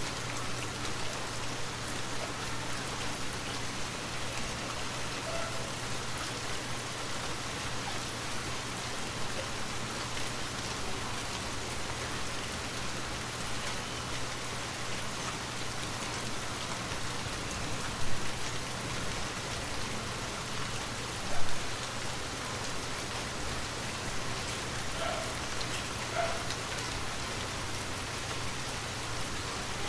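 Steady rain falling and pattering on surfaces, with a steady low hum underneath. Two brief louder sounds stand out in the second half.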